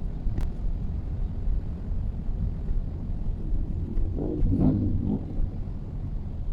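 Steady low rumble of a Mitsubishi Xpander driving on the road, with a brief louder pitched sound about four seconds in.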